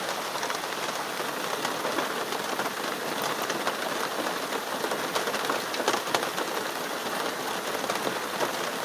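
Steady rain falling, many single drops ticking through an even hiss.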